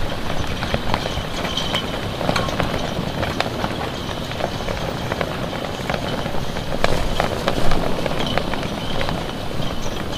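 Gusty storm wind, with a steady low rumble and hiss, and many scattered sharp ticks throughout.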